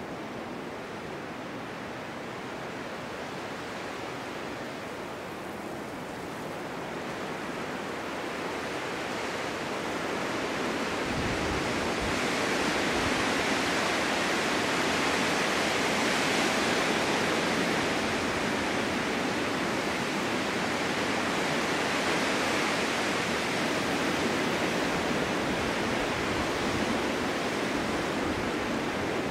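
Wind in a snowstorm blowing steadily, building from about eight seconds in to a stronger gust that holds.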